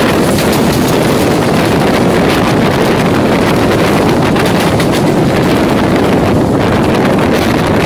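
Steady running noise of an Indian Railways EMU local train heard on board, a continuous rumble and rattle of the train at speed, with wind buffeting the microphone.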